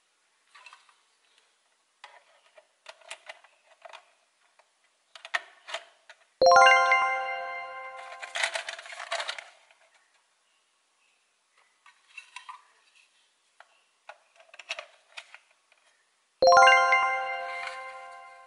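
Two bright bell-like dings, each struck suddenly and ringing out over about two seconds, about ten seconds apart. Between them come soft, scattered clicks and taps of plastic toy-cow parts being handled and fitted together.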